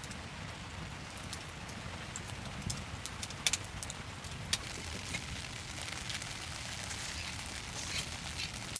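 Steady rain falling, an even hiss with a low rumble, broken by scattered sharp ticks; the loudest comes about three and a half seconds in.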